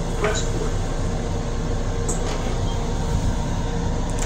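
Steady running noise of a Metro-North M7 electric railcar, an even low rumble with a constant hum and a few faint clicks.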